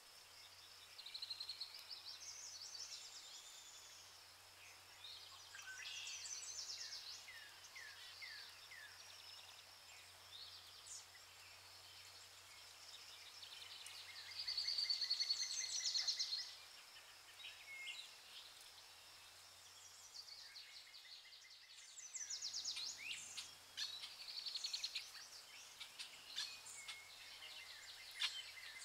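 Birds calling and singing in a natural ambience: many overlapping chirps, rapid high trills and short falling notes over a faint steady low hum. The sound briefly drops out about three-quarters of the way through.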